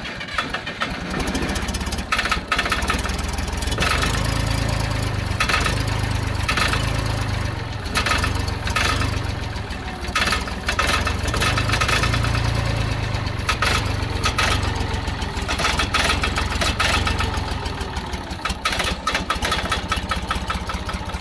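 Old John Deere bulldozer engine cranking and firing, rising and falling in loudness several times as it tries to catch and run.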